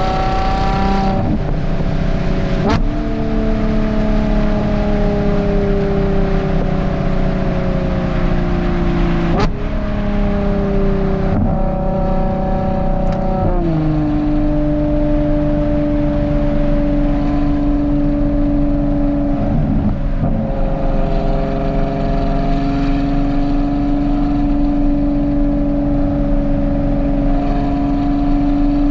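Ferrari Purosangue's naturally aspirated V12 running through a Novitec race exhaust, under way with the engine note shifting in sudden jumps at gear changes, a few sharp cracks among them, then holding a fairly steady drone for the second half.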